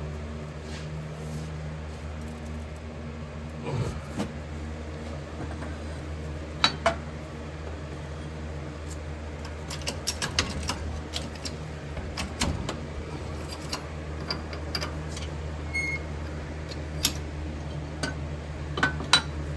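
Toauto melting furnace giving off a steady low hum, with scattered light clicks and knocks of metal tools being handled, loudest about a third of the way in and near the end.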